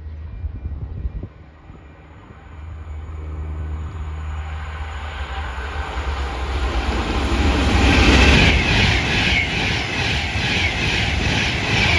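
A train approaching and running past, its rumble building to a peak about two-thirds of the way through. A regular clatter of wheels on the rails, about three beats a second, comes in near the end.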